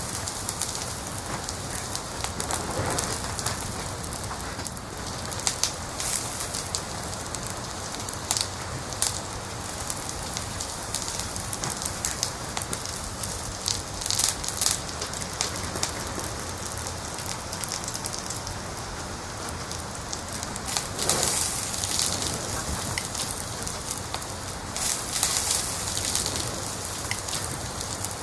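Wood fire crackling in a fireplace: a steady hiss with frequent sharp pops and snaps, which come in denser clusters at a few points.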